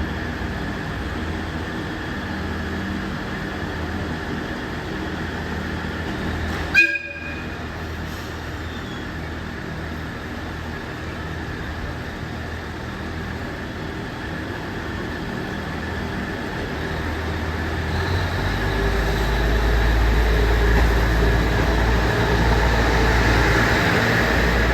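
Passenger train standing at a station platform with a steady hum, then one short horn toot about seven seconds in. From about eighteen seconds a low rumble grows louder as the train pulls away on departure.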